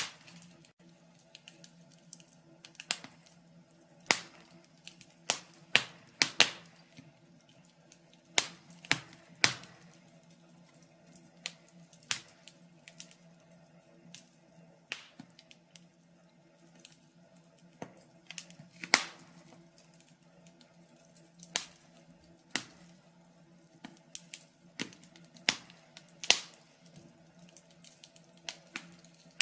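Wood fire crackling: irregular sharp pops and snaps of burning logs, several louder cracks among frequent small ticks, over a faint steady low hum.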